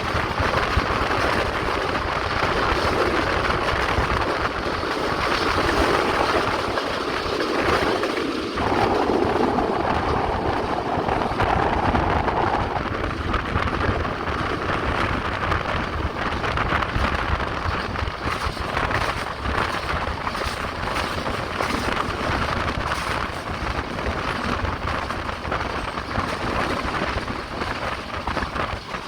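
Passenger train running along the track, a steady rumble and rattle of the wheels and carriage. A steadier tone rises out of it for about four seconds a third of the way in.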